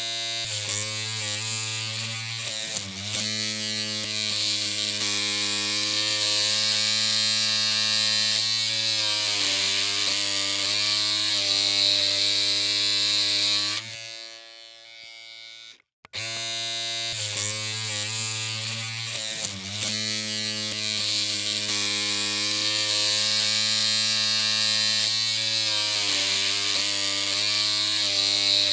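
Electric hair clippers running with a steady buzzing hum, the pitch dipping briefly a couple of times. About fourteen seconds in they cut out, and they start up again abruptly two seconds later.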